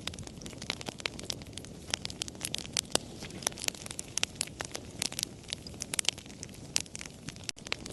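Campfire crackling: irregular sharp pops and snaps of burning wood over a low steady rush, with a split-second gap near the end.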